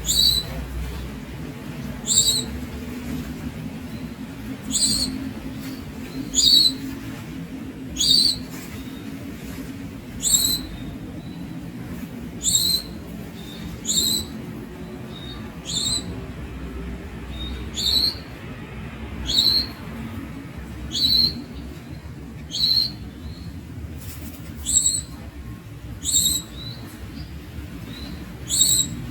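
Young Javan munia calling: a short, high, sharp call repeated steadily, about one every one and a half to two seconds, over a low background hum.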